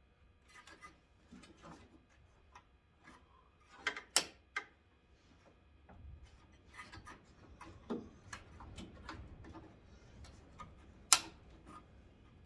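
Scattered small plastic clicks and taps from hands working at a stuck headlight connector on an old Ford Ranger, with two sharp, louder clicks, one about four seconds in and one near the end.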